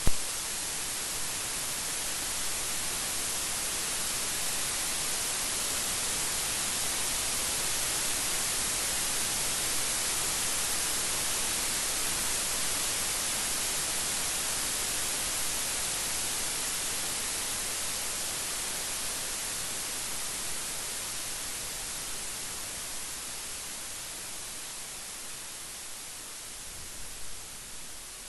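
Steady heavy rain as an even hiss that is strongest in the high range. It swells a little over the first several seconds, then slowly fades toward the end. A single sharp click comes right at the start.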